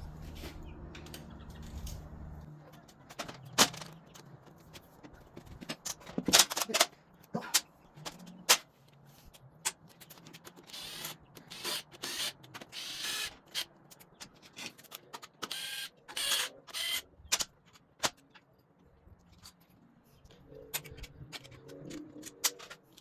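Hand tools and metal engine parts clinking and knocking, a long run of irregular clicks and taps with a few short metallic rings, as a 7/8 wrench works on a motorcycle engine's bolts.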